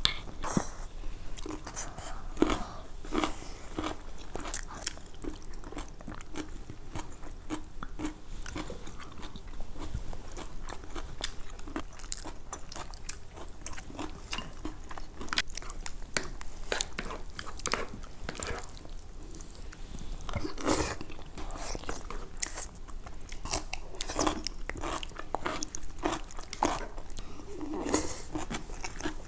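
Close-miked chewing and crunching of food by two people eating, with irregular sharp clicks of chopsticks and spoons against bowls.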